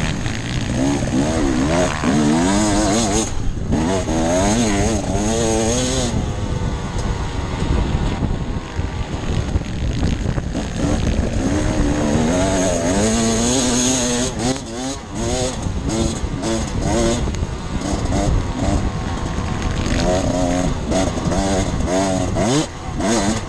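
Off-road dirt bike engine being ridden, its pitch climbing and dropping over and over as the throttle is opened and closed, over a steady rush of wind and terrain noise.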